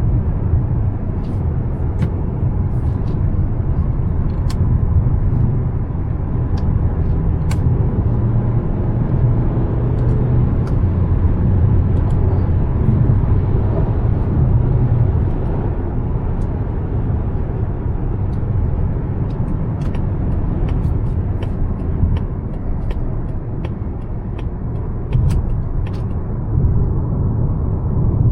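Mazda CX-5's naturally aspirated 2.5-litre four-cylinder running while it drives: a steady low hum of engine, tyre and road noise, with scattered light clicks.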